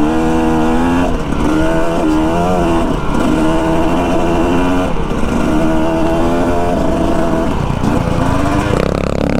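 Dirt bike engine running while riding, its pitch stepping and wavering with throttle changes.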